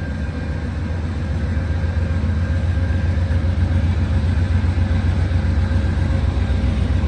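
Amtrak diesel passenger train standing at a station platform, its locomotives idling with a steady low rumble and a faint steady whine above it.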